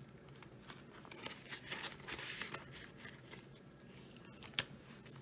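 Paper banknotes rustling and being handled as cash is tucked into budget envelopes, with a single sharp click about four and a half seconds in.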